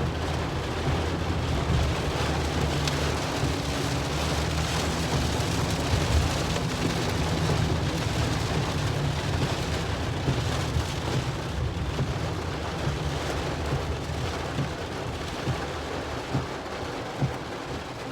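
Heavy rain falling steadily, a dense hiss with a low rumble underneath that eases off over the last few seconds.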